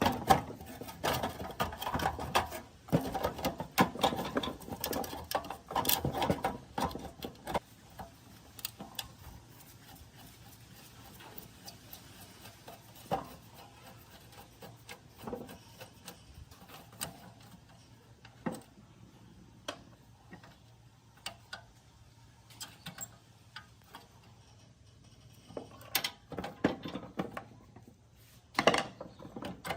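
Hand work on the metal parts of a gas water heater: several seconds of busy scraping and rubbing with clicks, then scattered clicks and knocks, with a few louder knocks near the end.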